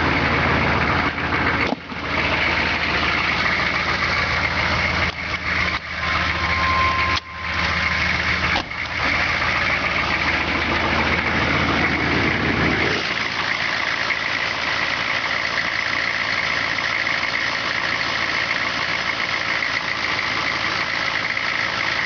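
Cold-started vehicle engines idling, heard in several short clips joined by abrupt cuts; the engine sound changes character about 13 seconds in. A short beep sounds about 7 seconds in.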